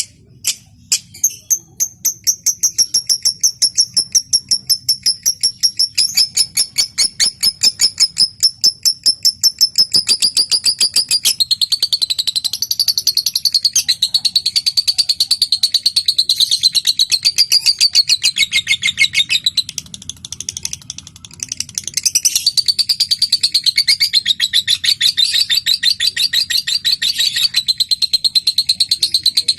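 Lovebird calling: a few separate ticking chips, then a long, rapid, chattering trill of high-pitched notes (the 'ngekek'), with a brief pause about two-thirds of the way through before the trill resumes.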